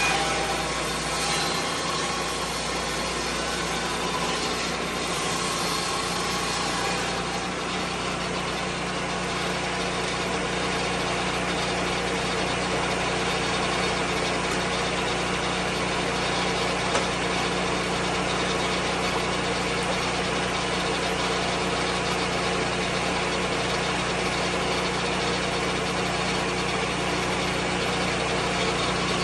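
Lucas Mill 10-30 swing-blade sawmill's engine running steadily.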